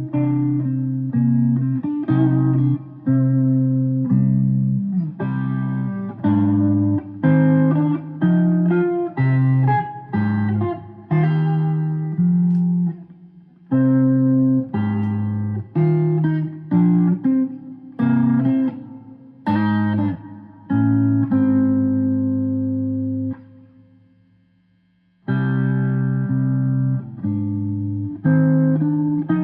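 Guitar music: a picked guitar playing a melody of separate plucked notes over lower bass notes, each note fading after it is struck. The playing stops briefly about four-fifths of the way through, then starts again.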